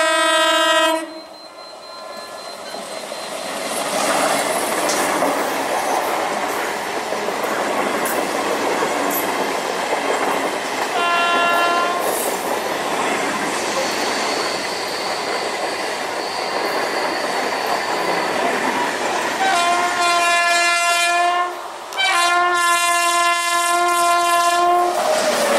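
An Indian Railways EMU local train sounds a horn blast as it comes round the curve, then passes with a steady noise of wheels running on the rails and a short horn blast midway. Near the end an oncoming electric locomotive sounds two long horn blasts.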